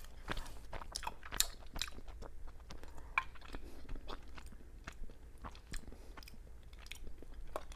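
Close-up mouth sounds of a person chewing soft mochi rice cake with bean paste filling: irregular wet clicks and smacks as it is chewed.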